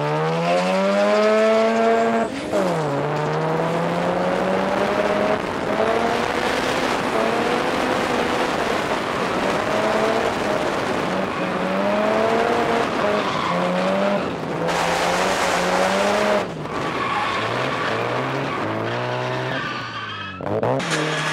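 Drift car engine heard from the car's own rear spoiler: it revs up hard from a standing start, drops once as it shifts up, then rises and falls over and over with the throttle through a tandem drift. Tyre squeal and a steady hiss run underneath, with a louder hiss about two thirds of the way through.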